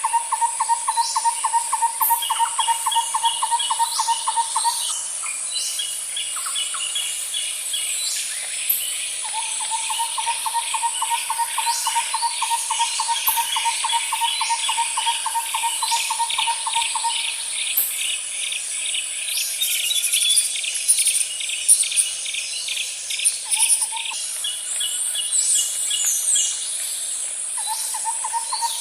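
Wild birds calling and trilling over a steady high insect drone. A lower, fast pulsing trill runs for several seconds at a time, stops, and comes back twice, while quicker repeated-note trills and short chirps sound higher up.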